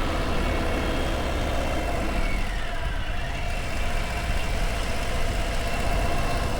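Harley-Davidson Low Rider ST's 117 cubic-inch Milwaukee-Eight V-twin running steadily at low revs, a deep even rumble. About two and a half seconds in, a faint tone dips in pitch and rises again.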